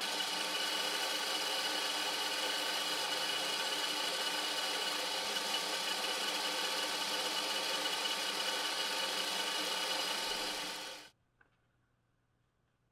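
Small electric motor running steadily at a constant speed, then switched off, stopping abruptly about eleven seconds in.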